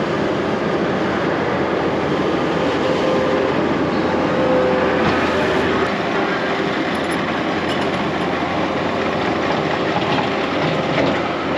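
Heavy equipment's diesel engine running steadily under work, with continuous rattling and clatter.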